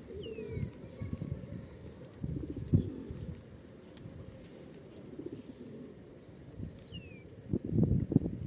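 Feral pigeons cooing in repeated low bursts. Twice, near the start and again about seven seconds in, a smaller bird gives a short, high call that falls in pitch.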